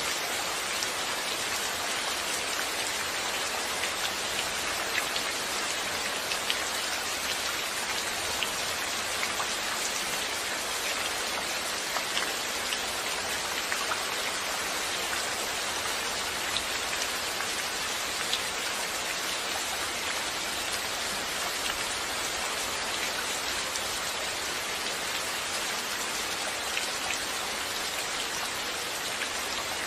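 Steady rain falling, an even hiss with many small drop ticks of individual raindrops hitting a surface.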